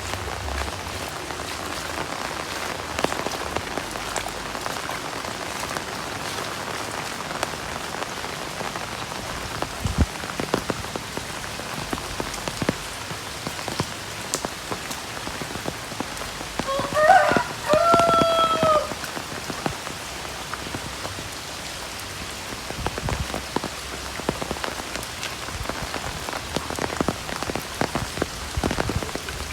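Heavy rain falling steadily, with scattered sharp drips and splashes. A brief pitched call, about two seconds long, sounds over the rain a little past halfway.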